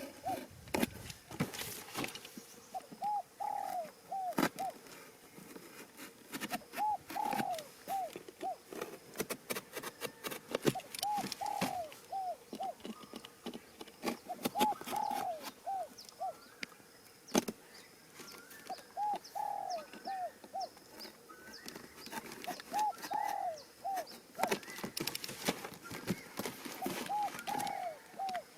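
A dove cooing: a short phrase of three or four notes, repeated about every four seconds. Light clicks and knocks are scattered through it.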